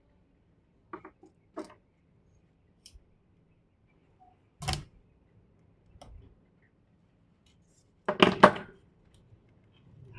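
Scattered clicks and knocks of tools and small parts being handled on a repair bench: a few single taps, a sharper knock about halfway through, and the loudest cluster of knocks near the end.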